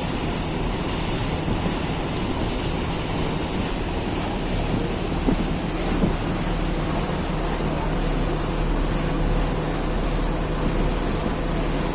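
Small passenger ferry under way: a steady engine hum under rushing water and wind buffeting the microphone, with two light knocks about halfway through.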